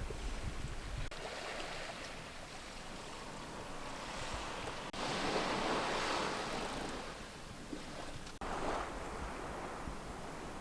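Sea waves washing onto a shore, swelling and easing, with a louder surge about halfway through and a shorter one near the end.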